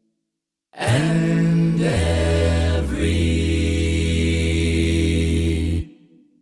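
Unaccompanied voices singing without words, holding a few sustained chords with short slides in pitch between them, then stopping abruptly near the end.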